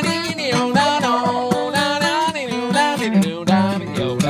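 Strummed acoustic guitar under a man singing long held notes that slide up and down in pitch, with no clear words.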